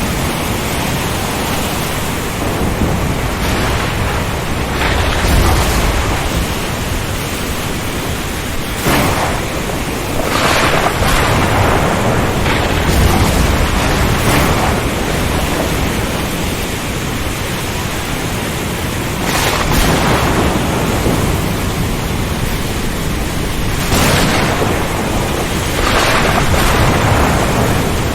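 Storm at sea: a constant rush of wind and heavy surf, with waves surging and breaking every few seconds and deep rolls of thunder.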